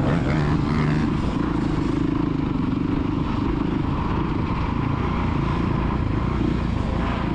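Youth motocross bike engine running on the track, a fairly steady engine note.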